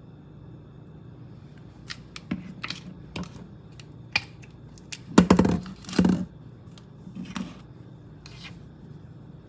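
Scattered clicks and knocks of kitchen containers and utensils being handled while seasoning, with two louder thumps about a second apart around the middle, over a steady low hum.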